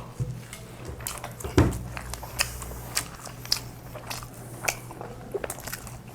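Close-up chewing and biting of kebab burgers: wet mouth clicks and smacks at irregular intervals, with one louder dull knock about a second and a half in.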